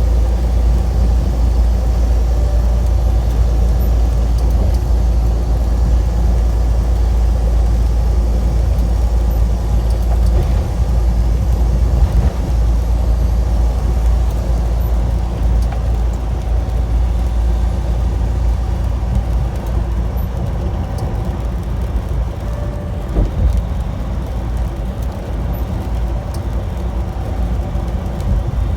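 A truck engine running with a steady, loud low rumble, heard from in or near the truck.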